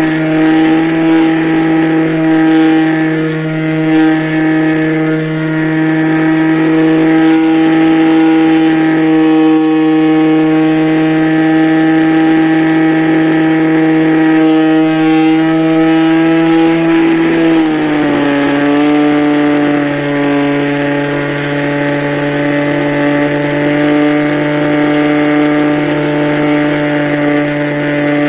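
Radio-controlled model airplane's engine running at a steady high pitch, dropping to a slightly lower pitch about 17 seconds in as the throttle is eased.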